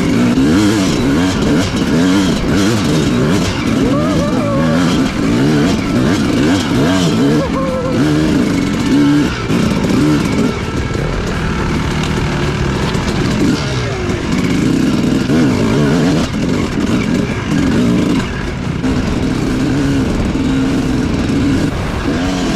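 250cc dirt bike engine revving up and down constantly under riding, its pitch rising and falling every second or so with no steady stretch.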